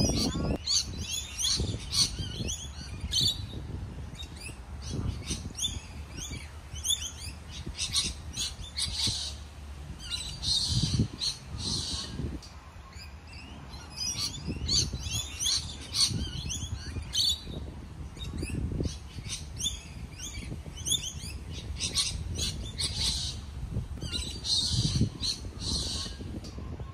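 Birds chirping and squawking in quick, repeated bursts of calls, over a low rumble.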